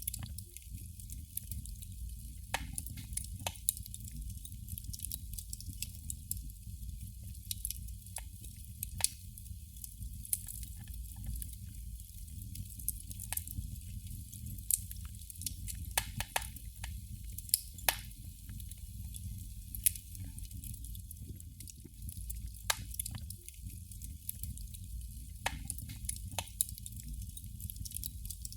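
Candle flame crackling: irregular sharp pops and ticks, a second or two apart, over a steady low rumble and faint hiss.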